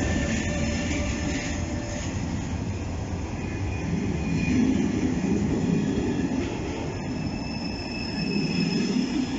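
Locomotive-hauled passenger train, an SNCB class 13 electric locomotive with its coaches, rolling past along the platform. A steady low rumble of wheels on rail swells and eases as the coaches go by, with a faint high wheel squeal.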